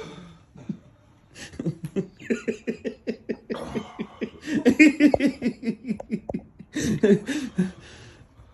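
Men laughing in repeated short bursts, mixed with coughing. The coughing is a throat reaction to the burn of a super-hot chilli chip.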